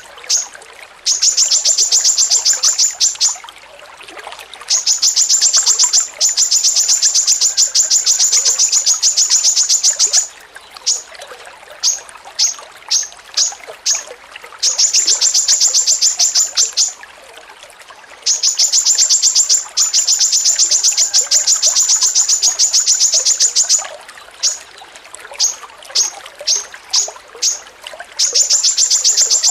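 A small songbird's rapid chattering: sharp high chips in long runs of about eight a second, lasting two to five seconds each, broken by spaced single chips between the runs.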